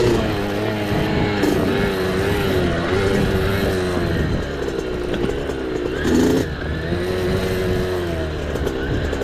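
A small off-road motorcycle (mini dirt bike) engine is ridden hard, its pitch rising and falling as the throttle opens and closes. There is a brief higher burst of revs about six seconds in.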